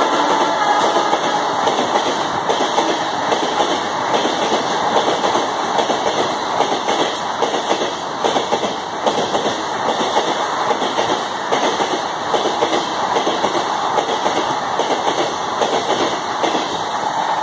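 Passenger coaches of an express train running past close at speed: a steady rush of wheel and rail noise with a repeated clickety-clack of wheels over the rail joints.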